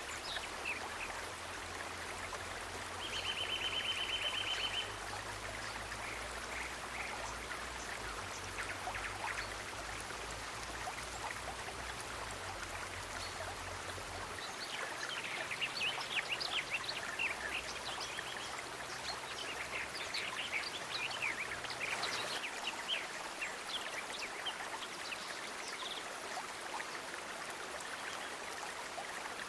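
Steady rush of flowing stream water. A short, rapid trill sounds about three seconds in, and a flurry of short high chirps comes about halfway through.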